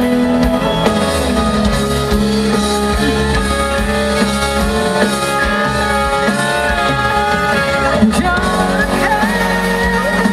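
Live band playing rock music with guitar to the fore and some singing.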